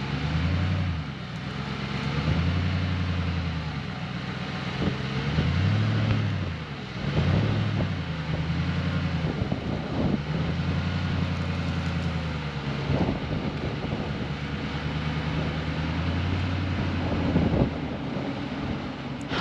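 Nissan Patrol Y62's petrol V8 engine working at low speed while towing a caravan through soft sand, its revs rising and falling every second or two, then holding steadier for the second half.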